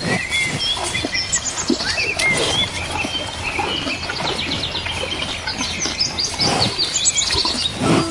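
Birds chirping: many short, high, rapid chirps overlapping one another.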